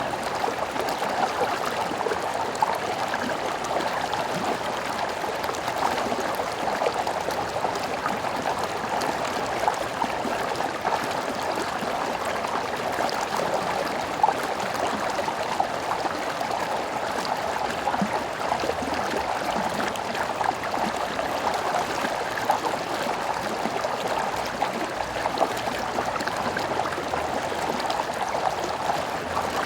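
Stream water flowing steadily, with a dense mid-pitched rushing and small irregular splashes and gurgles.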